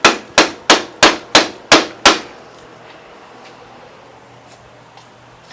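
Soft-blow hammer striking the threaded end of a John Deere 120 lawn tractor's steering shaft, seven quick blows about three a second that stop after two seconds, trying to knock the seized steering wheel off the shaft; the shaft stays stuck.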